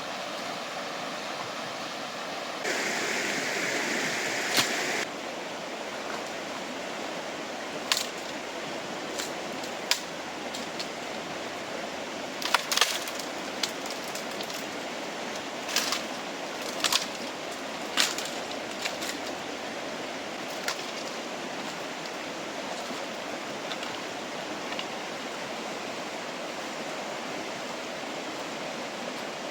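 River water flowing steadily, with a louder, brighter rush for about two seconds near the start. Through the middle come a scatter of sharp cracks and clicks.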